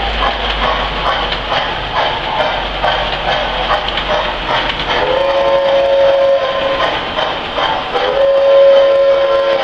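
Lionel 390E standard gauge tinplate model train running on its track with a steady rolling clatter. About five seconds in, the locomotive's whistle sounds: one blast of under two seconds, then a longer blast from about eight seconds in.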